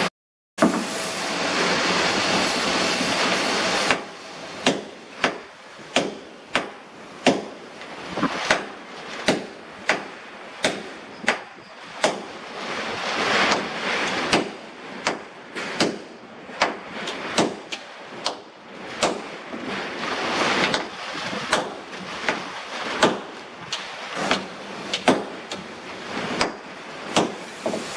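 A steady rushing noise for the first few seconds, then regular sharp knocks, about one and a half a second, over a continuing rushing noise.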